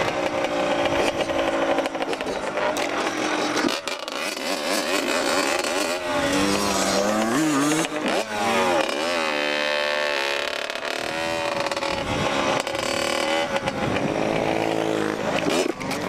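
Off-road vehicle engine revving up and down repeatedly while riding, its pitch rising and falling several times, over steady wind and road noise.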